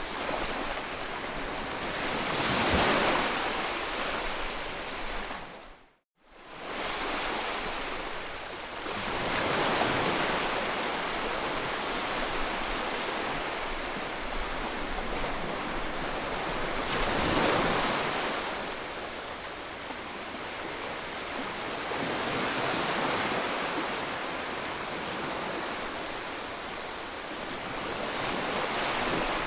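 Sea waves breaking and washing up, swelling and ebbing about every six or seven seconds. The sound cuts out for a moment about six seconds in, then comes back.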